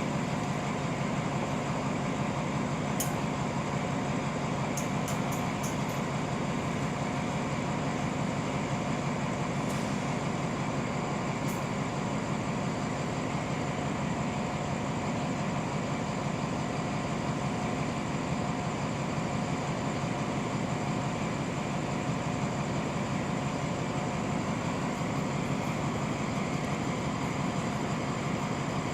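Diesel locomotive of a stopped passenger train idling steadily, a constant drone with several held tones, with a few faint light clicks.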